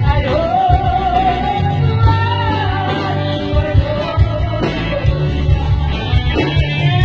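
A singer holding a long, wavering high note, then a falling phrase, over a band accompaniment with bass and a steady beat.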